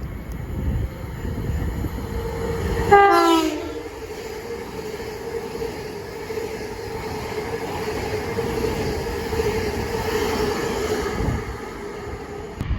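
A passing train sounds its horn briefly about three seconds in, the pitch dropping as it goes by. A steady humming tone and the train's running noise continue until it fades near the end.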